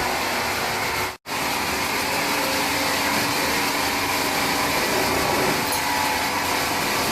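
Steady, loud machinery noise of a sawmill, with a brief dropout of about a tenth of a second a little over a second in.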